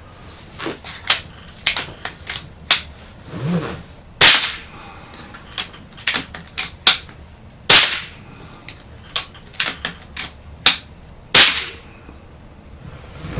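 Three suppressed shots from a .22 Kral Puncher Breaker Silent PCP air rifle fitted with a DonnyFL KOI suppressor, each a sharp crack about three and a half seconds apart, with lighter sharp clicks between the shots.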